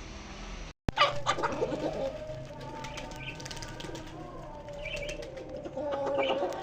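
Birds calling, with a wavering held note and short higher calls, after an abrupt cut and a sharp click about a second in.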